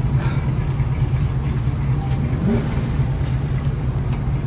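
A steady, loud low engine drone, an engine running at constant speed, with a few faint clicks over it.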